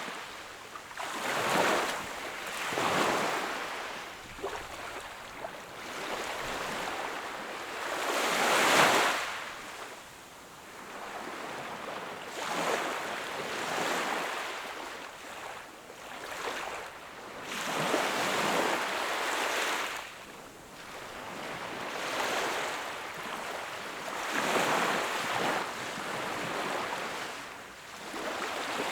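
Sea waves washing onto a shore, each surge swelling and fading every few seconds, the loudest about nine seconds in.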